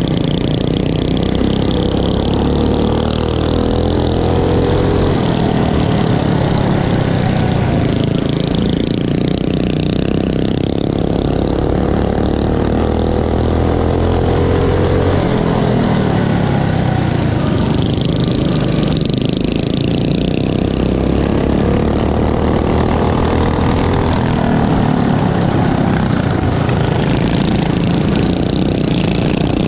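Several small mini bike engines running and revving together, their pitches repeatedly rising and falling as the bikes accelerate, lift off and pass.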